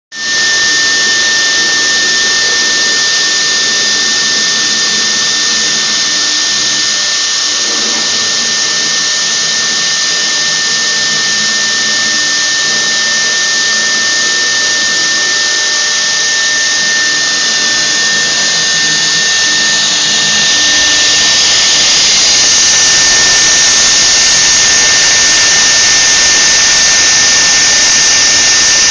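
CNC machine running: a steady high-pitched whine over a loud, even hiss, growing a little louder about twenty seconds in.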